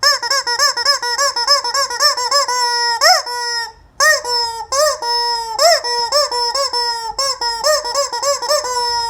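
Rubber chicken squeak toy being squeezed over and over, a fast run of short rising-and-falling squawks about four a second, with a brief pause about halfway through.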